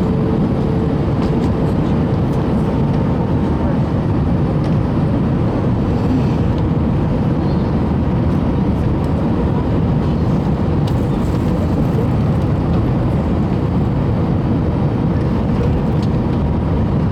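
Steady cabin noise inside an Airbus A321 airliner: an even rumble of engines and airflow, with a faint hum that fades out a few seconds in.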